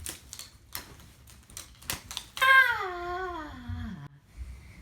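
A few faint clicks and taps, then a person's long wordless vocal sound that slides down in pitch for about a second and a half, starting about two and a half seconds in.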